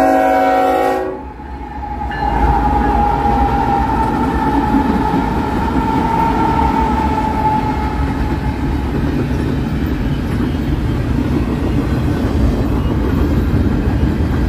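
Train horn sounding one short blast of several tones together, lasting about a second, then a train rolling past with a steady rumble of wheels on the rails.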